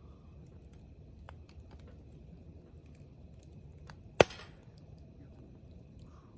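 Wood campfire crackling with scattered small ticks and one loud, sharp pop about four seconds in.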